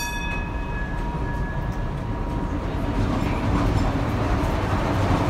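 Narrow-gauge heritage train at a station: a high, steady tone dies away in the first two seconds, over a steady rumble and hiss that grows louder about three seconds in.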